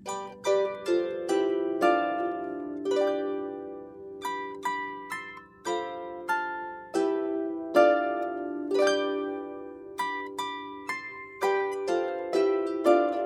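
Solo harp playing a slow melody of plucked notes, each ringing and fading over chords.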